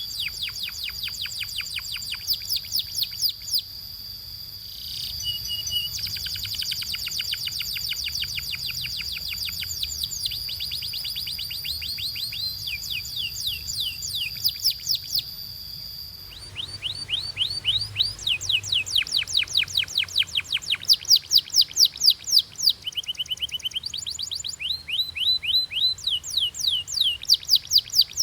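Canary singing: fast rolling trills of repeated falling notes, changing to a new trill every few seconds. A high steady held tone runs under the first half and stops about halfway through, after which the trills are louder and more clearly spaced.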